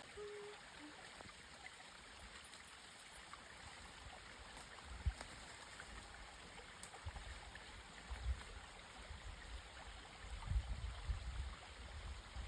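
Spring water falling from a pipe into a small stream, a steady running, splashing sound, with low rumbles and knocks from about halfway through.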